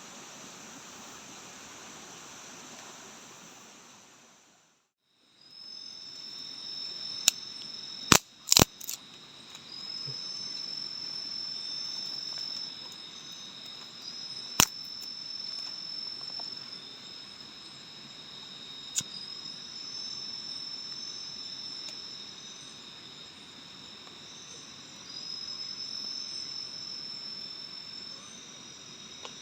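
Forest insects calling in a steady high-pitched drone at two pitches, with fresh calls starting every few seconds. A few sharp clicks are the loudest sounds, a cluster around eight seconds in and single ones near fifteen and nineteen seconds. In the first few seconds a rushing, water-like noise fades out.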